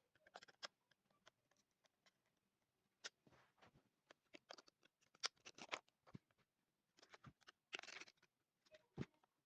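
Faint, scattered clicks and short scratching sounds, irregular and widely spaced, in a small quiet room.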